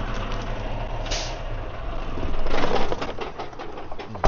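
Semi-truck diesel engine idling steadily, with a short hiss about a second in, rustling and clicking in the middle, and a loud thud near the end.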